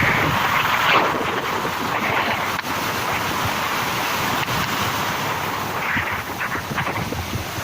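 Strong cyclone wind buffeting the microphone over the rush of surf, with gusts swelling about a second in and again near six seconds.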